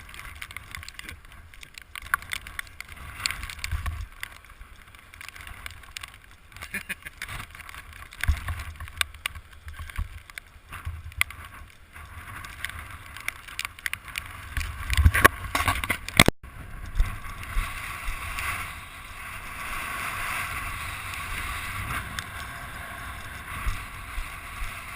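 Wind buffeting the microphone with a gusty low rumble, over a steady hiss of rushing sea water and chop. The sound breaks off sharply for an instant about two-thirds of the way through, then carries on with a stronger water hiss.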